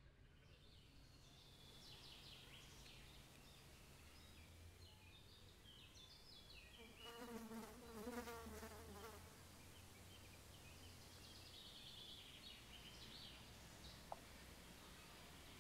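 Faint outdoor ambience with birds chirping. About seven seconds in, a fly buzzes past for roughly two seconds, its pitch wavering. A single small click comes near the end.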